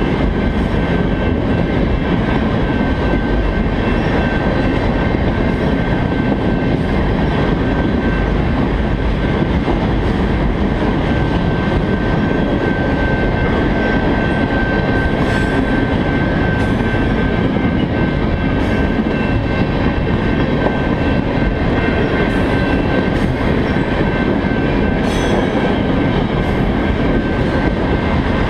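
A freight train of crude-oil tank cars rolling past: a steady rumble of steel wheels on rail, a thin high wheel squeal held throughout, and a few clicks at the rail joints.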